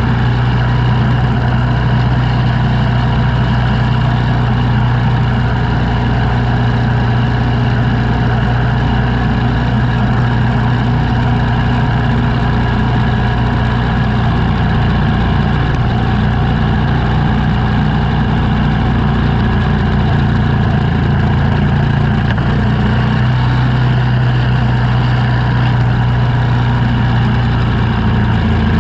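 Engine of snow-clearing equipment running steadily. Its note changes for a stretch in the middle, then settles back.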